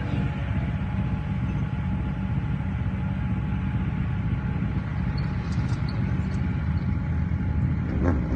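Kart cross's Suzuki RF600R four-cylinder motorcycle engine running at steady revs, a low even rumble with no change in pitch.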